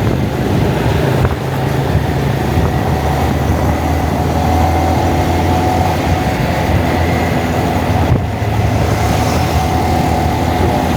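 Honda Monkey's single-cylinder four-stroke engine running steadily while riding, with wind noise on the camera's microphone over it.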